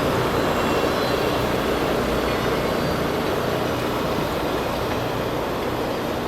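Rail grinder at work: a steady, loud grinding roar from the grinding wheels on the railhead over the machine's engine drone, slowly fading as it moves away.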